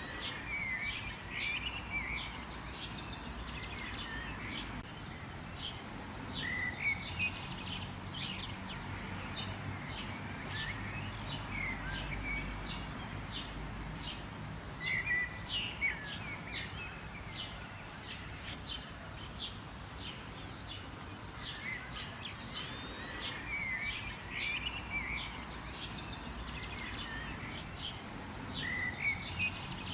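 Several birds chirping and calling, a dense run of short, high chirps with the odd warbled call throughout, over a low, steady rumble of background noise.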